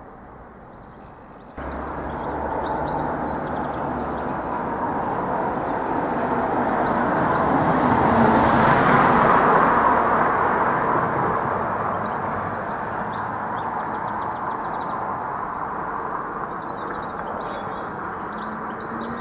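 An electric 8300 class DART commuter train rumbling as it pulls away from the station and runs through the level crossing. The rumble starts suddenly just after the start, is loudest about halfway through and then holds steady. Birds chirp now and then.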